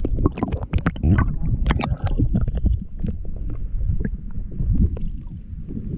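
Muffled underwater rumbling and gurgling picked up by a camera held under the sea surface, with a run of dull knocks and water movement.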